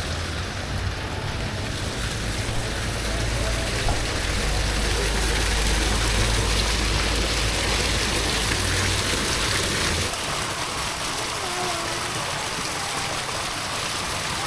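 Steady rushing noise of wind buffeting the microphone, with a low rumble that eases off about ten seconds in.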